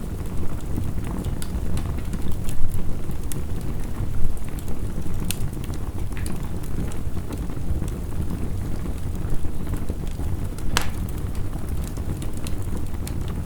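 Wood fire crackling, with scattered sharp pops, the loudest about eleven seconds in, over a steady low rush of heavy rain.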